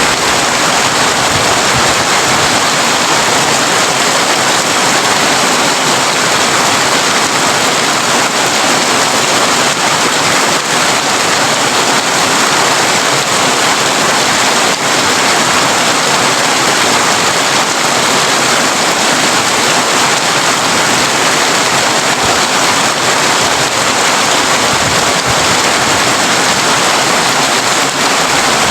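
Heavy rain falling steadily on a tin roof, an even, unbroken hiss of many drops.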